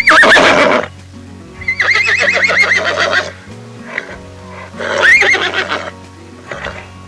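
Horse whinnying three times over background music: a short neigh at the start, a longer quavering whinny about two seconds in, and a shorter one about five seconds in.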